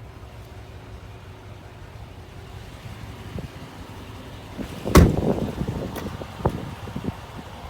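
A truck cab door slammed shut with one loud thud about five seconds in, followed by a few lighter knocks, over a low steady rumble.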